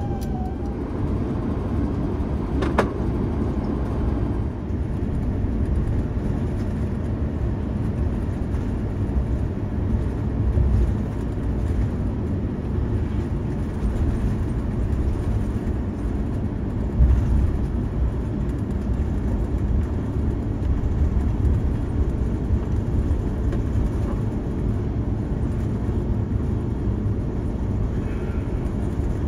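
Steady low rumble of a vehicle in motion heard from inside, with one sharp click about three seconds in.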